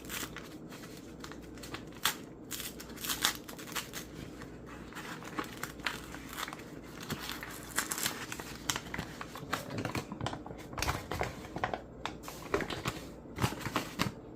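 Paper flour bag crinkling and rustling as it is handled and opened, in a string of irregular crackles.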